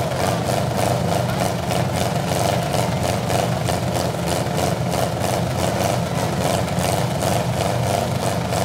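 V8 engines of demolition derby cars running steadily together.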